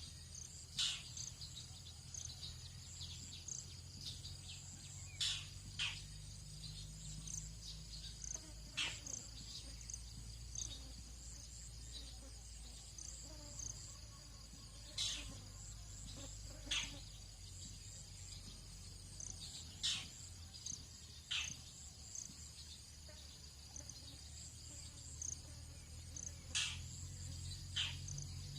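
Dawn chorus of tropical insects and crickets, a steady high-pitched trilling. About a dozen short, sharp descending chirps, likely birds, cut through it every few seconds over a low steady hum.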